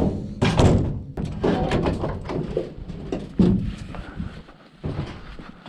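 Pieces of scrap metal being thrown into a scrap collector's truck, landing with several heavy thunks: about half a second in, a little past halfway, and again near the end.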